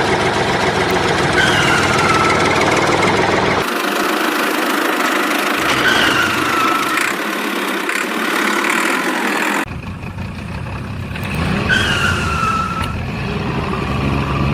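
Engine running sound, loud and noisy, with a short falling tone that comes back about every five seconds. The sound changes abruptly twice, about four and ten seconds in.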